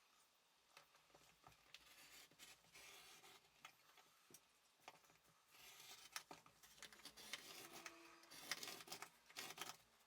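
Faint scratchy strokes of a craft knife drawn through card along a ruler, in two stretches with light clicks and ticks between them.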